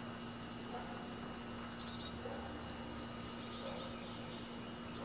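Small birds singing: three short phrases of quick high chirps, the first a rapid run of about eight notes, then falling notes, then another quick run, over a faint steady low hum.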